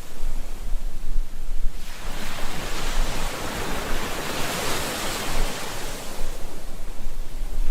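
Ocean surf: a wave washes in, swelling to a peak about halfway through and then drawing back, over a steady low rumble of the sea.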